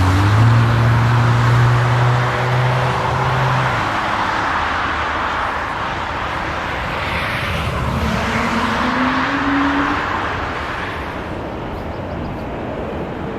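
Steady rushing engine noise that swells toward the middle and eases off near the end, with a low steady hum in the first few seconds.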